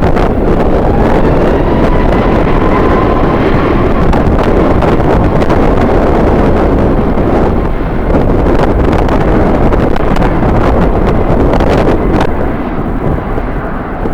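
Strong wind buffeting the microphone, a loud, constant rumbling noise. A faint, thin whine sits under it for the first few seconds, and the buffeting eases a little near the end.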